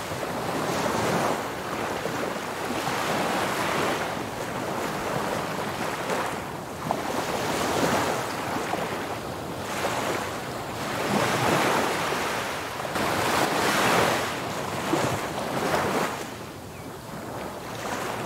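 Sea surf washing onto a sandy beach, the rush swelling and fading every few seconds, with wind buffeting the microphone.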